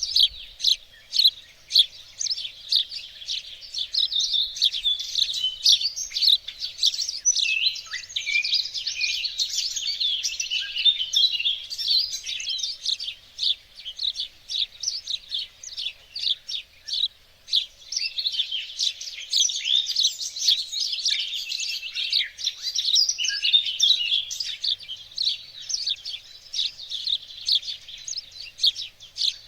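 Several songbirds chirping and singing at once: a dense, overlapping chorus of short, rapid high notes and trills.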